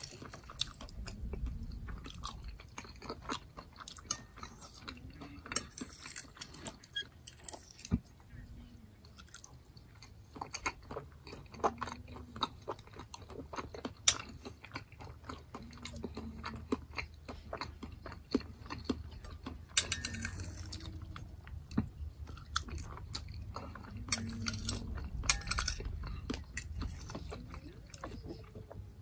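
Close-miked chewing and wet mouth sounds of a man eating ground turkey and potatoes, with a metal fork clicking and scraping against a plate many times; one click in the middle is much sharper than the rest.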